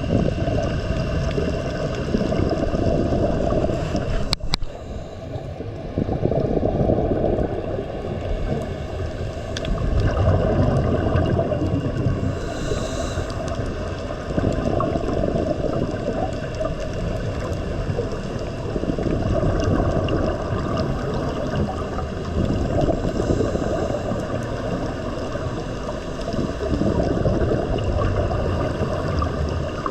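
Steady muffled water noise, a low rumble and gurgle, with one sharp knock about four seconds in.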